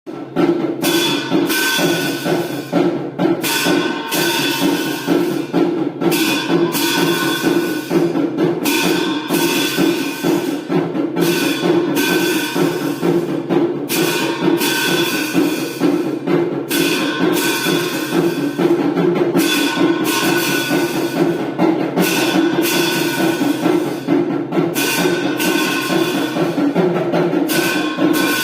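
Temple aarti percussion: fast, continuous drumming with a bell or cymbals ringing in repeated bursts.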